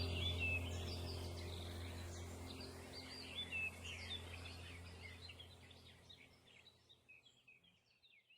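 Songbirds chirping and trilling over a low steady drone, the whole sound fading out gradually to silence near the end.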